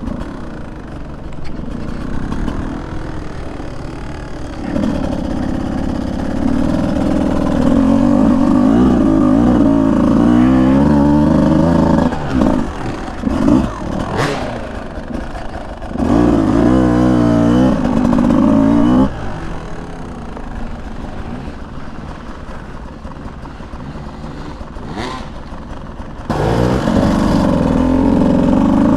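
Beta 200 single-cylinder two-stroke dirt bike engine revving up and easing off under changing throttle. It is loud with rising pitch from about five to twelve seconds in and again around sixteen to nineteen seconds, runs lower and quieter for a while after that, and picks up again near the end. A brief sharp knock comes about fourteen seconds in.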